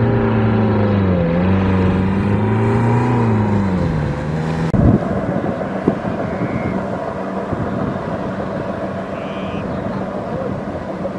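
Kubota DC-70 Plus rice combine harvester's diesel engine running under load, its pitch dipping and recovering twice. About five seconds in the sound changes abruptly, with a thump, to a steadier, noisier engine drone.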